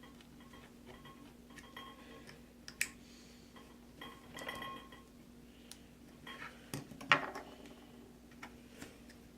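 Light metallic clicks and short ringing clinks from a knife blade working a shotgun shell open. The sharpest click comes about seven seconds in.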